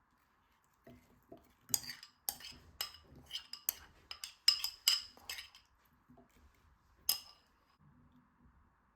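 Cutlery clinking against dishes: a quick run of sharp clinks over about four seconds, then one more clink after a short pause.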